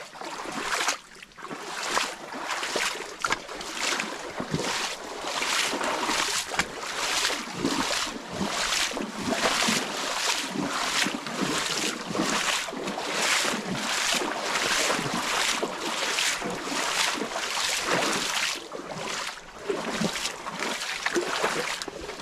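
Footsteps crunching through leaf litter and brush at a walking pace, about two steps a second, over the steady rush of flowing creek water.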